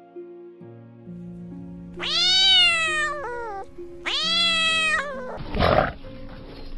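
A kitten meowing twice, each call long and falling in pitch, over background music with held notes. A short, loud, rough sound follows near the end.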